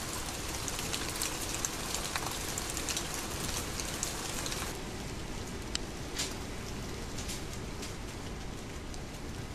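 Steady rain falling on wooden steps and wet leaves, with many individual drops ticking sharply. About halfway through it changes to a softer, duller rain hiss with only occasional close drops.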